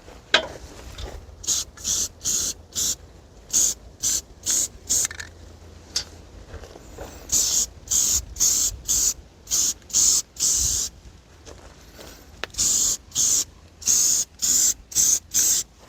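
Aerosol spray can sprayed in many short bursts of hiss, a few a second, with one longer spray about two-thirds of the way through and a short pause after it.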